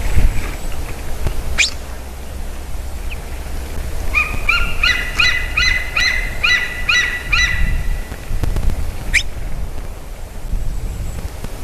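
A bird calls a rapid series of about ten clear, pitched notes lasting about three and a half seconds, with a single sharp rising chirp a couple of seconds before it and another a couple of seconds after. A steady low rumble runs underneath.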